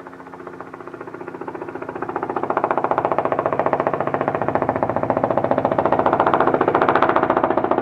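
Robinson R44 helicopter's rotor and piston engine, with a fast even beating from the rotor blades over a steady engine hum. It grows louder over the first two to three seconds and then holds steady.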